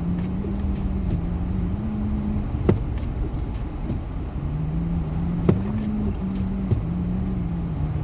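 Truck engine and road rumble heard from inside the cab while driving, the engine hum rising in steps and falling back twice. A few sharp knocks cut through, about a third and two-thirds of the way in.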